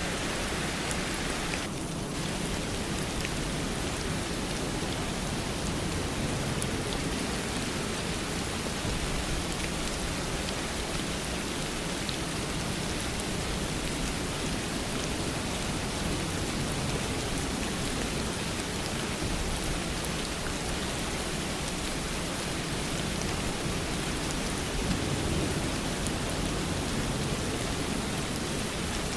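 Steady rain falling, an even hiss with faint scattered drop ticks, dipping briefly about two seconds in.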